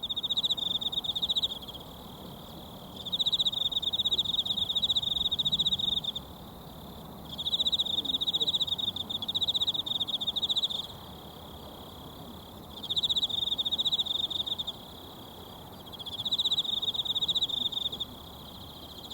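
An insect, cricket-like, trilling high and fast in repeated bouts of a few seconds with short pauses between, about five bouts in all, over the soft steady rush of a mountain stream.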